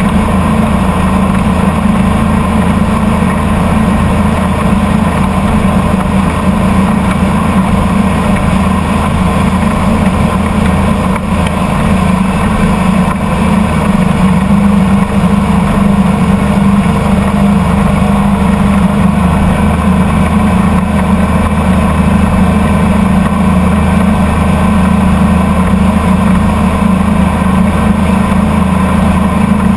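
Motorboat engine running loud and even at a steady speed, with no change in pitch.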